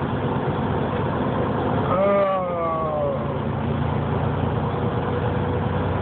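Truck engine running steadily, heard from the cab while the truck rolls slowly through traffic. About two seconds in, a brief pitched sound slides down in pitch for about a second.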